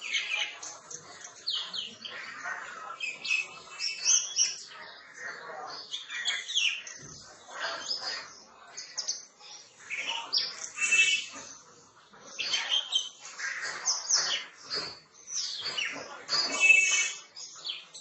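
Birds chirping and calling over one another: many short, high calls packed close together, loudest near the end.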